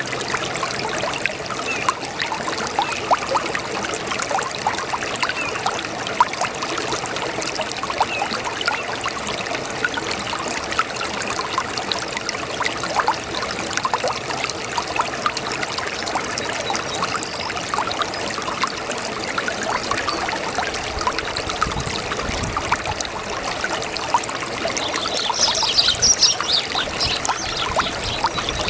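A babbling brook: shallow water trickling and splashing steadily over stones, with many small quick splashes. Near the end a brief brighter, higher sound rises over the water.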